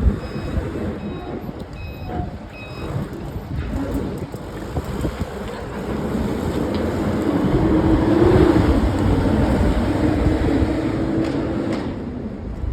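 A heavy vehicle engine runs with a steady rumble that swells and eases. In the first few seconds there are short high beeps, like a reversing alarm.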